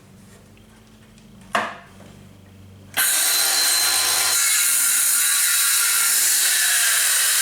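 Ryobi 18-volt 5.5-inch cordless circular saw cutting through a 2x6. A single sharp knock comes about a second and a half in, then a loud, steady sawing noise starts suddenly about three seconds in and holds.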